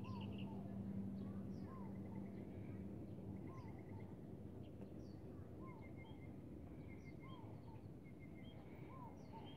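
Several birds chirping, with short calls repeated every second or so and an occasional quick trill. A low steady hum fades out about three seconds in.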